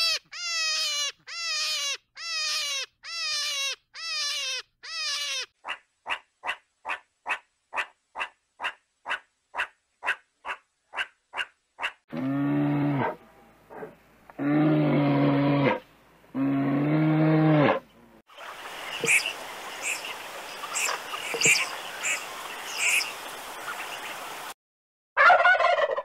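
A string of different animal calls: first about seven short squeals, each falling in pitch, then rapid clicking at about three a second, then three long low calls from a brown bear. After a stretch of noisy chattering with high chirps, a turkey starts gobbling at the very end.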